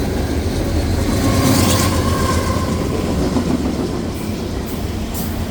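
Loaded CPKC ballast train passing at speed: a loud, steady rumble of the train, with a few sharp wheel clicks near the end.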